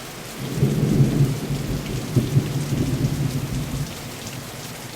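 Steady rain falling, with a low rumble of thunder that starts about half a second in and dies away near the four-second mark.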